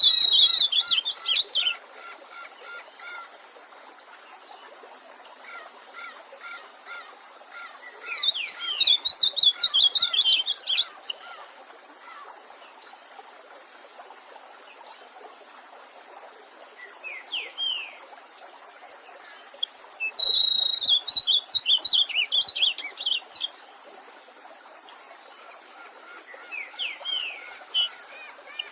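A songbird sings loud phrases of rapid chirping notes, each ending in a higher note, about every ten seconds. Softer bird calls come in between, over a faint steady hiss of running stream water.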